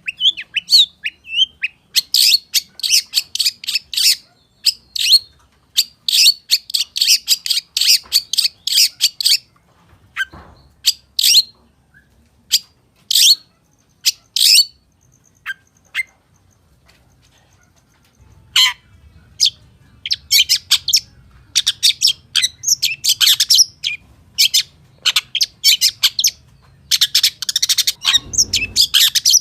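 Long-tailed shrike (cendet) singing a fast, chattering song of quick high chirps and calls, the busy 'full isian' style packed with mimicked notes, in dense runs with a sparser stretch in the middle. A couple of brief low thumps stand out, one about ten seconds in and one near the end.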